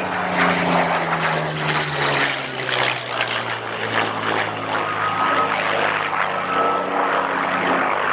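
Propeller-driven piston-engined aircraft flying past, its engine note dropping in pitch over the first few seconds as it goes by, then running on steadily.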